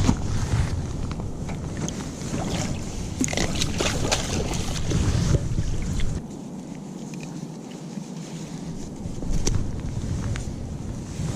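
Wind rumbling on the microphone until about six seconds in, with scattered splashes and clicks of handling as a small blue catfish is brought in from the river.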